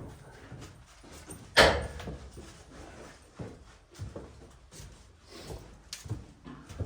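A sharp knock about one and a half seconds in, followed by several lighter, irregular knocks and clunks.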